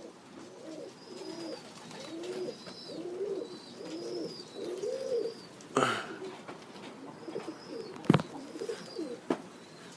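Domestic pigeons cooing, a continuous run of low rising-and-falling coos. Faint high chirps sit above them, and there are two sharp knocks about six and eight seconds in.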